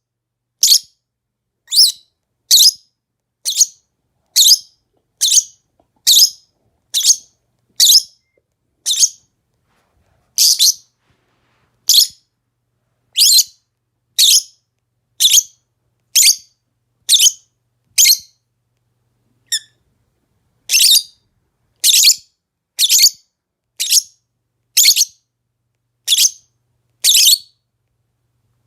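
Lovebird giving a long series of short, shrill, high-pitched calls, about one a second, with a couple of brief pauses.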